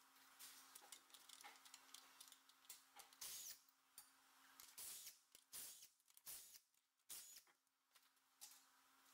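Near silence: a faint steady hum with a few faint, scattered clicks and knocks.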